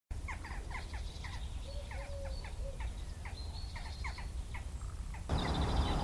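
Birds chirping: a rapid string of short, repeated chirps with a few thin held whistles, over a low steady rumble that gets louder about five seconds in.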